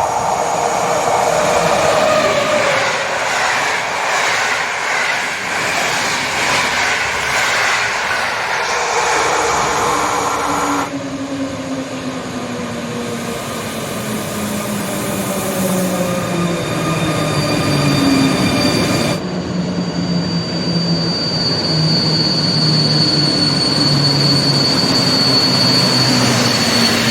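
A train running past, with a pitched electric motor whine that falls slowly and steadily as it slows. A thin, high, steady tone joins in during the last third. The sound changes abruptly twice.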